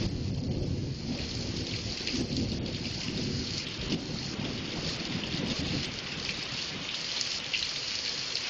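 A long roll of thunder rumbling, fading out after about six seconds, over steady rain hissing and pattering on surfaces.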